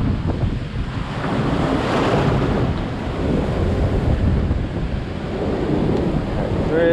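Wind buffeting the microphone over breaking surf, a steady rushing noise that swells briefly about two seconds in.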